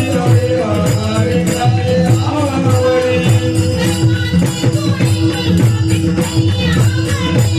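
Varkari kirtan music: a woman singing a devotional melody over a steady held drone, with an even drum beat and jingling hand cymbals keeping time.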